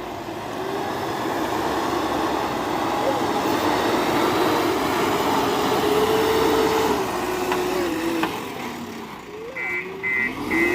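Diesel engine of a JCB 4DX backhoe loader running under working load, its pitch rising and falling as it digs and lifts. Near the end a reversing alarm starts beeping, about three beeps a second.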